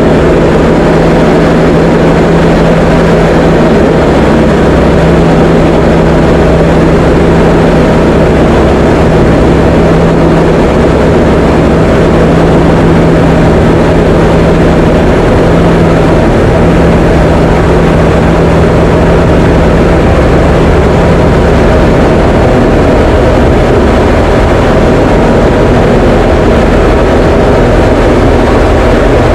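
Diamond DA20 light aircraft's piston engine and propeller droning steadily in flight, heard loud inside the cockpit. A steady low hum runs through it and weakens about two-thirds of the way through.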